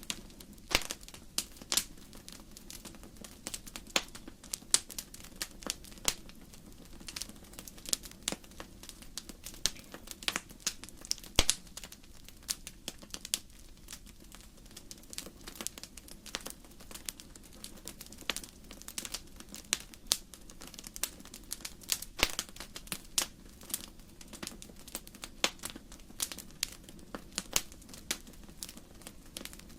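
Wood fire burning in a fireplace, logs crackling: irregular sharp pops and snaps, several a second, over a soft steady low noise.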